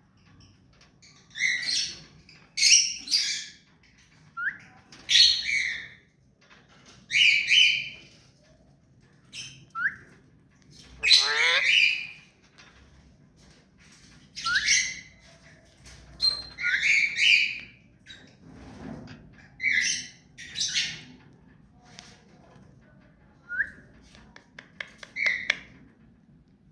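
Ring-necked parakeet calling over and over: a dozen or so short loud calls in irregular bouts, with a few brief rising chirps between them.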